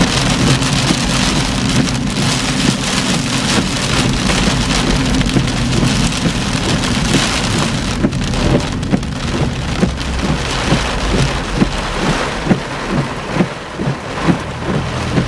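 Torrential rain pounding on a moving car's roof and windshield in a severe thunderstorm: a dense, loud patter, with single heavy drop hits standing out more in the second half.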